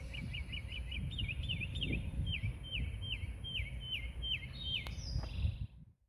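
A songbird sings a long series of short downslurred chirps, rapid at first and then slowing to about two a second, over a low wind rumble.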